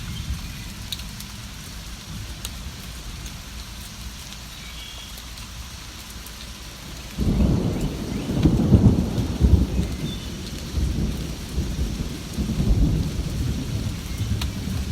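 Steady rain falling, then about halfway through a roll of thunder breaks in suddenly and rumbles on, loudest a second or two after it starts.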